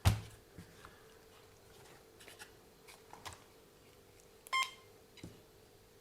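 A sharp click at the start, then faint handling clicks and a single short electronic beep from the powered-up RC car's electronics about four and a half seconds in.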